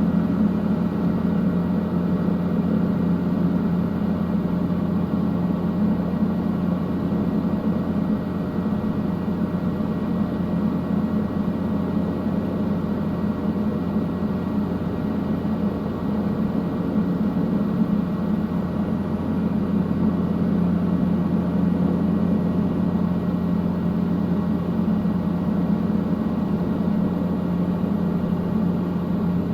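Helicopter in flight, its engine and rotors making a steady drone with a strong low hum.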